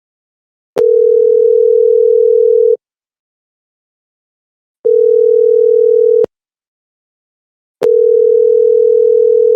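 Telephone ringing tone on an outgoing call: three long beeps of one steady tone with short silences between them, the line ringing while the call waits to be answered.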